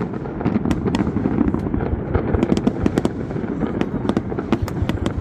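Aerial fireworks going off in a rapid, irregular barrage of sharp cracks and bangs, several a second, over a continuous low rumble.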